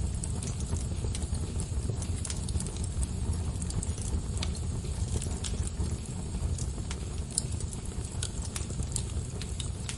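Wood fire burning with a steady low rumble of flames and irregular sharp crackles and pops of burning logs.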